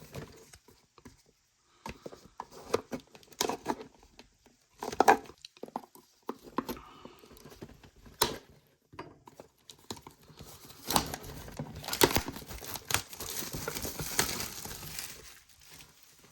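Plastic wrapping and cardboard packaging of a Pokémon Elite Trainer Box being handled and torn open: crinkling and tearing with scattered sharp taps, denser and steadier over the last several seconds.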